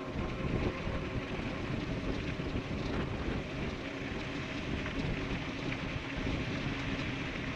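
Wind rushing over the microphone of an e-bike riding fast downhill, with steady rumble from the tyres on the road surface.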